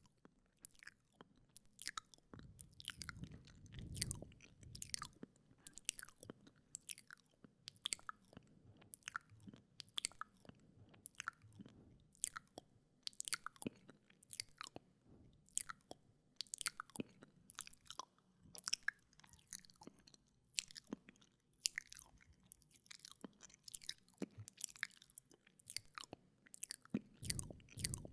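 Wet mouth sounds very close to the microphone: sticky tongue and lip clicks and smacks, irregular, a couple every second, with a soft low rumble swelling a few seconds in and again near the end.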